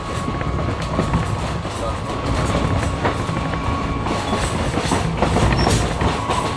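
Wooden-bodied excursion passenger coach rolling along jointed track: a steady rumble of steel wheels on rail with scattered clicks from the rail joints.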